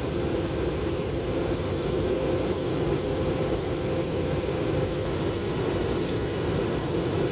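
Steady cabin noise of an airliner in flight, heard from inside the cabin: the even drone of the engines and rushing air, with a steady hum running through it.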